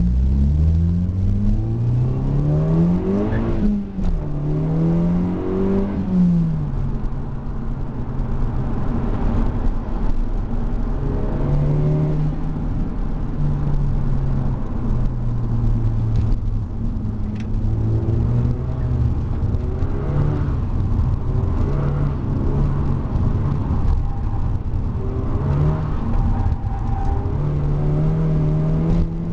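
Volkswagen Mk5 GTI's turbocharged 2.0-litre four-cylinder, with Revo software, cold-air intake and custom exhaust, heard from inside the cabin. The revs climb hard in the first few seconds, drop sharply at about four seconds, climb again and drop near six seconds, then hold at a steady cruise that rises and eases now and then.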